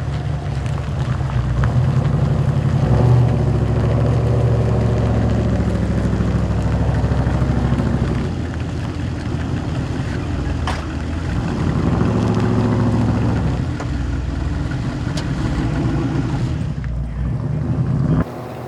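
Large car engine rumbling deep and loud, swelling and easing twice as it runs; the sound drops off abruptly near the end.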